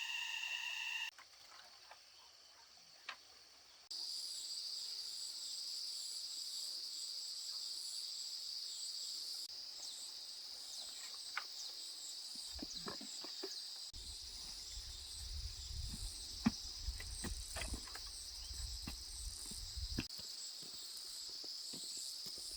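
Insects chirring in a steady high drone, starting a few seconds in, with scattered clicks and knocks and a low rumble through the later part.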